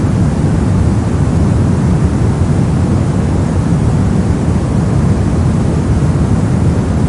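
Steady soft white noise for sleep, weighted toward the low end so it sounds deep and even, with no changes.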